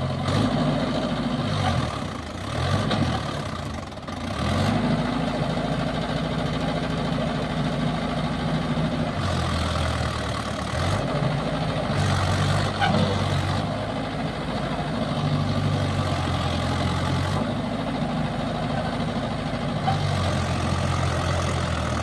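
Tractor diesel engine under load, revved up and down in quick surges in the first few seconds, then held at alternating higher and lower speeds, as it tries to pull a trolley out of deep mud.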